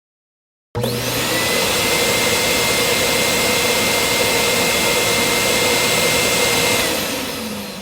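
A loud motor-driven machine with a rushing airflow and a steady high whine starts abruptly about a second in and runs evenly. Near the end it winds down, its whine falling in pitch as it fades.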